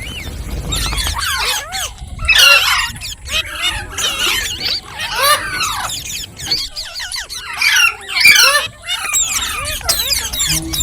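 Green parrot chirping and squawking: quick runs of short, high, squeaky calls that swoop up and down in pitch, with brief pauses about two seconds in and again near seven seconds.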